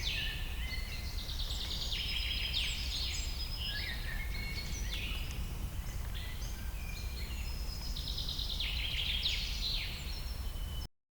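Several birds calling and singing at once, in quick chirps and trills, over a steady low rumble; the sound cuts off abruptly near the end.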